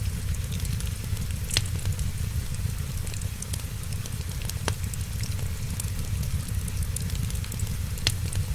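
Wood fire in a fireplace crackling steadily over a low rumble, with three sharper pops spaced a few seconds apart.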